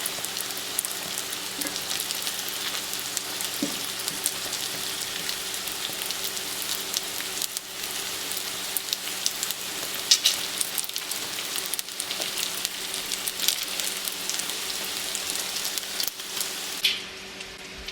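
Pierogies frying in hot oil in a pan: a steady sizzle with frequent crackling pops of spattering oil.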